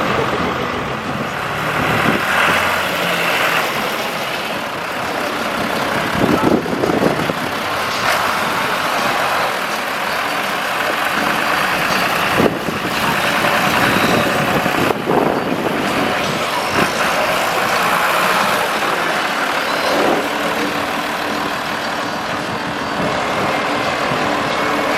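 Heavy diesel vehicles running on the road: a steady mix of engine and road noise, with a few short knocks.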